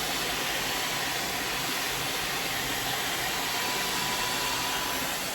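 Hot-air volumizer brush running, its fan blowing a steady, even hiss of air.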